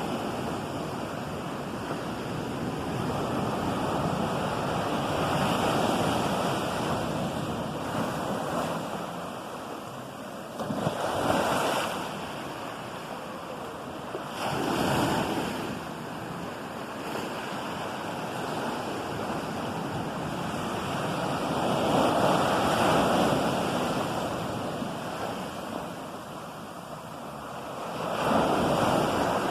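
Ocean waves breaking and washing up the shore, a steady rush of surf that swells with each wave every few seconds.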